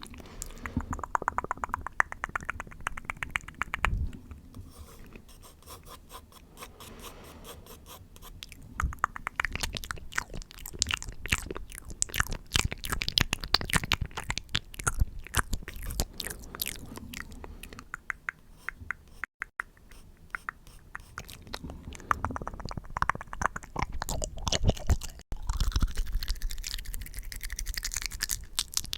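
Close-miked ASMR mouth sounds: rapid, wet clicks and smacks of tongue and lips, with a very fast run of clicks in the first few seconds.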